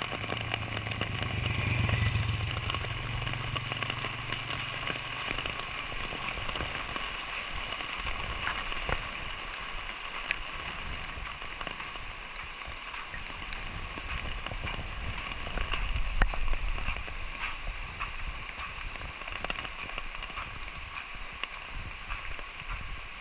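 Light drizzle falling, a steady hiss of rain with many small drop ticks. A low rumble rises and fades in the first few seconds, and another comes around two-thirds of the way in.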